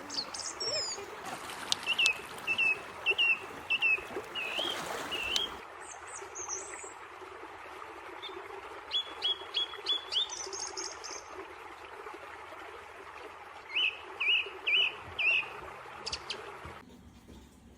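Wild songbirds singing in short runs of quick, repeated chirping notes. The runs come three times, at the start, near the middle and near the end, over a steady outdoor hiss.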